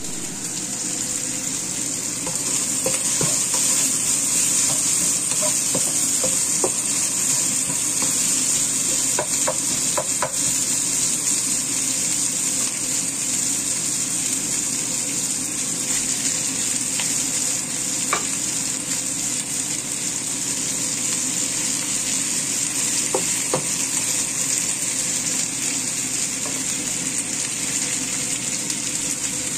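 Sliced onions and spice paste sizzling steadily in hot oil in a wok, with a few light clicks from stirring.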